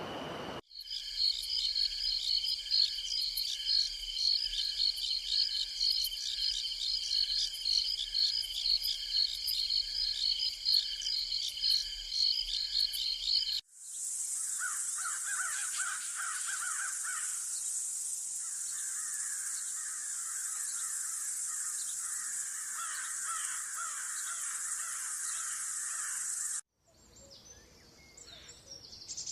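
Rainforest ambience edited from separate takes. First comes a dense, rhythmic chorus of calling animals, pulsing several times a second. After an abrupt cut about halfway, a steady high insect buzz runs with harsh, crow-like bird calls over it. Near the end the sound cuts to a short, much quieter stretch.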